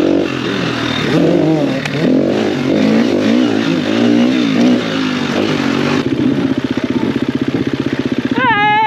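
Enduro motorcycle engine revving up and down as it is ridden, then settling about six seconds in to a steady, rapid chugging at low revs. A brief high-pitched tone rises and holds near the end.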